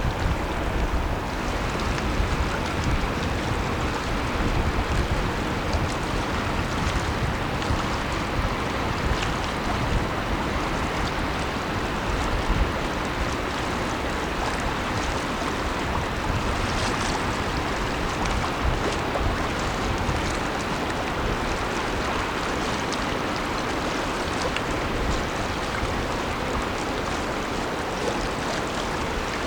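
Wind buffeting the microphone, a gusty low rumble under a steady rushing noise, with no distinct engine tone.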